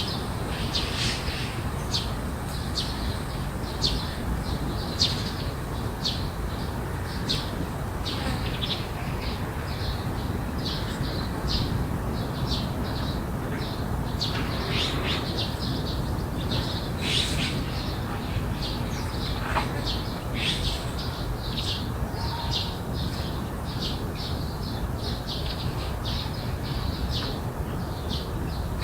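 Garden birds chirping, a steady run of short, high calls one or two a second, over a steady low background rumble.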